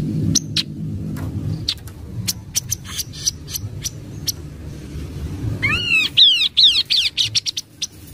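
Kaso-kaso bird song: scattered short, sharp call notes, then, about five and a half seconds in, a fast run of sweeping whistled notes lasting nearly two seconds.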